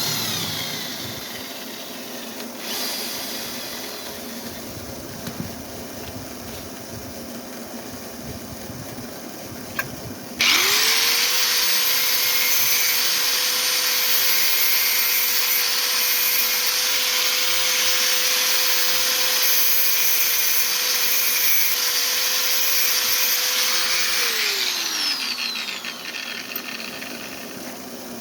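A small high-speed electric motor starts abruptly about ten seconds in and runs at a steady whine with a strong hiss for about fourteen seconds, then spins down with falling pitch as it is switched off.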